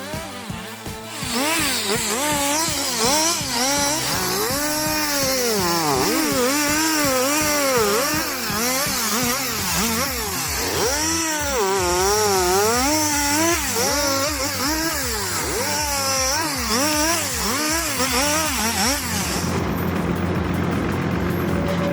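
Chainsaw engine revving up and down over and over as it cuts, its pitch rising and falling every second or so, with background music underneath; near the end it cuts off abruptly into a steadier, noisier engine sound.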